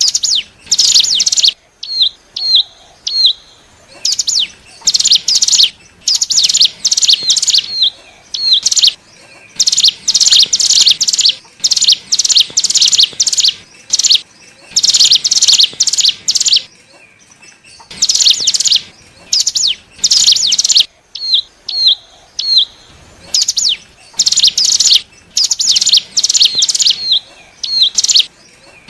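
Ciblek gunung (a mountain prinia) song used as a lure call: repeated loud bursts of rapid, high notes with short pauses between, and a few quick hooked chip notes in some of the gaps.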